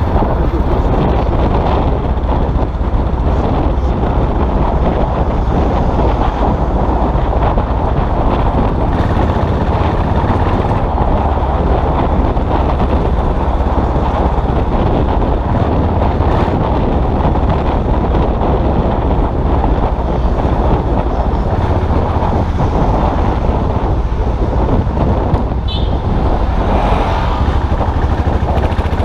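Custom motorcycle engine running steadily while riding, with road and traffic noise.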